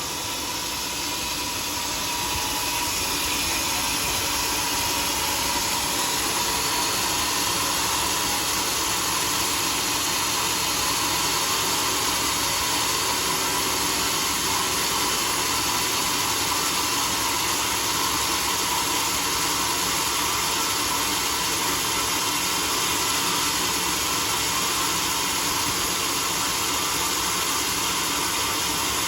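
Homemade sawmill running steadily while sawing a teak log, a continuous machine noise that gets a little louder about two seconds in and then holds.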